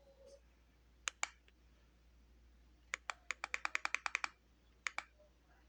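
Typing on a computer keyboard: two key taps about a second in, a quick run of about a dozen keystrokes a little after the middle, then two more taps near the end.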